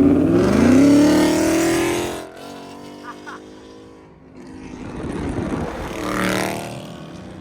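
Dodge Charger Daytona V8 accelerating hard. The engine note climbs for about two seconds, drops sharply at a gear change, then climbs again through the next gear.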